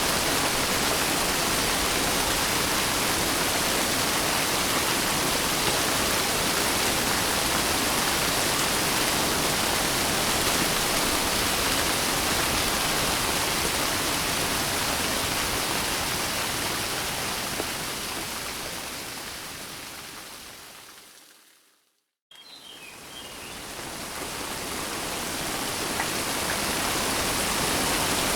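Steady heavy rain hiss that fades out to silence about three quarters of the way through and fades back in a few seconds later, like a loop point in the recording. A few faint high chirps come as it returns.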